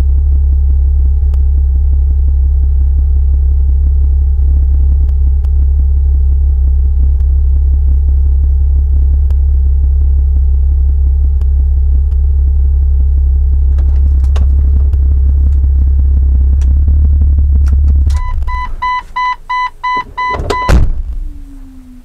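Car engine running steadily, heard from inside the cabin, until it cuts out about eighteen seconds in. A run of about six short high beeps follows, then a single loud knock near the end.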